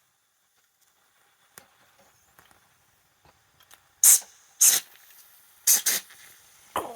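Mamod live-steam model locomotive spitting short, loud hissing puffs of steam, five in an uneven run beginning about four seconds in, as it first raises steam.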